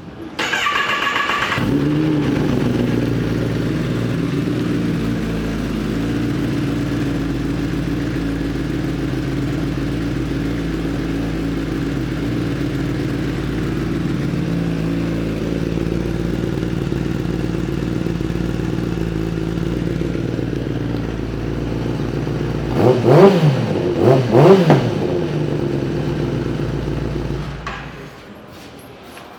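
A 2016 Kawasaki ZX-10R's inline-four engine, with a Two Brothers aftermarket exhaust, is cranked on the electric starter and catches within a second or so, then idles steadily. Near the end it is revved twice in quick blips, then it is shut off.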